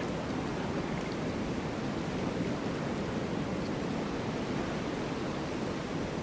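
Snowstorm wind: a steady, low, even rush of noise without distinct gusts.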